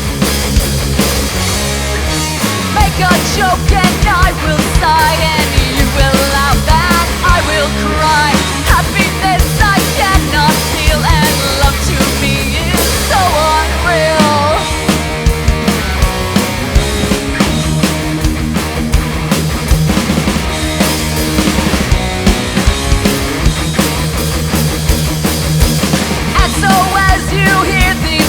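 Live rock band playing an instrumental passage: a lead line with bending notes over a steady drum beat and bass, with no vocals.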